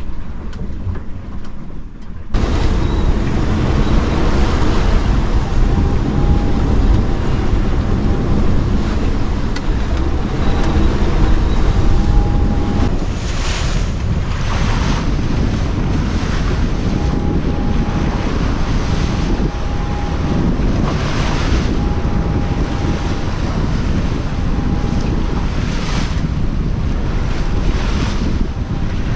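Strong wind buffeting the microphone and waves rushing and breaking against a sailboat beating upwind in rough seas. There are several louder surges of rushing water and spray, and a thin high tone that comes and goes.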